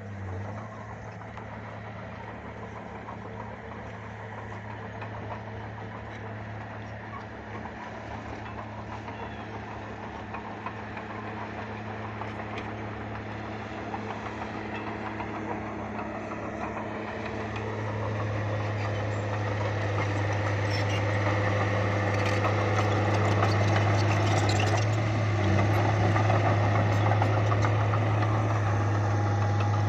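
Bulldozer's diesel engine running steadily, with a deep, even hum. It grows louder and busier about halfway through and stays at that higher level to the end.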